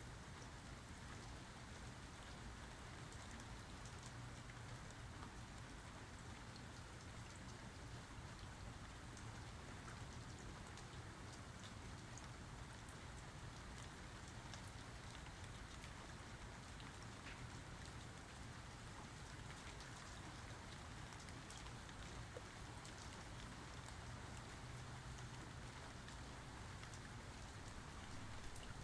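Steady, faint rainfall, with many individual drops ticking through a continuous hiss.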